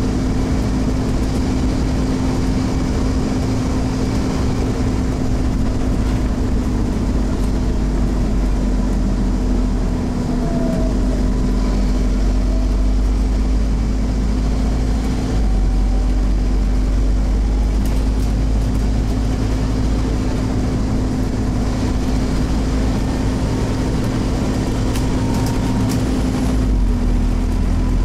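Scania CN270UB OmniCity bus engine and drivetrain running under way, heard from inside the saloon: a loud steady diesel drone with a constant hum, the engine note shifting a few times as power and gears change, with faint transmission whines and the odd rattle.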